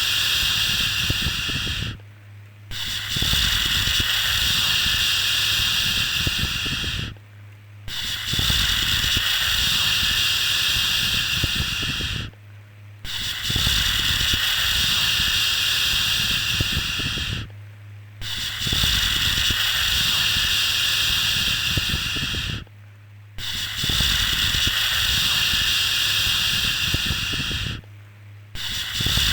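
Repeated long 'shhh' shushing sounds for soothing a baby, each a steady hiss lasting about four and a half seconds, separated by short pauses about every five seconds.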